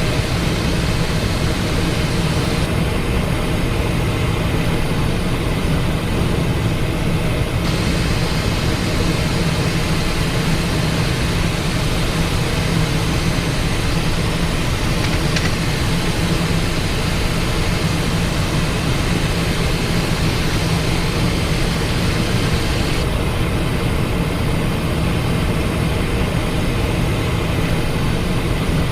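Steady cockpit noise of a Cessna Citation XLS twin-turbofan business jet in flight on final approach: an even rush of airflow over a constant low engine hum.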